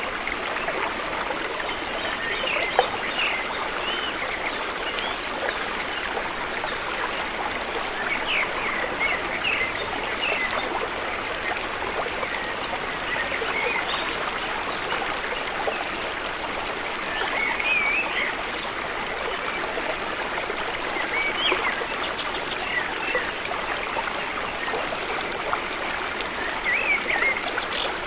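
River water flowing in a steady, even rush. Birds chirp briefly now and then above it.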